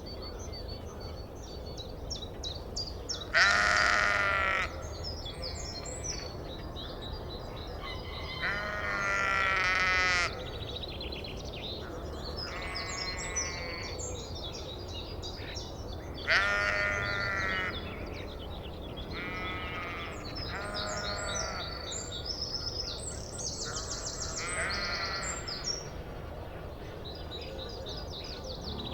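Repeated long animal calls, about seven of them, each lasting a second or so; the loudest come early and about halfway through. Small birds chirp continuously in the background.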